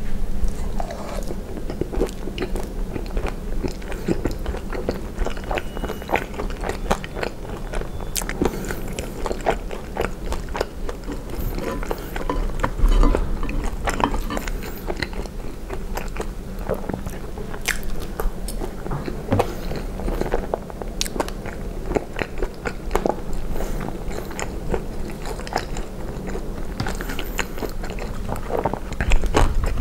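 Close-miked chewing and biting of poutine (gravy-soaked fries and cheese curds), with wet mouth sounds and many short clicks and smacks. Now and then a metal fork scrapes and clinks against a cast-iron skillet.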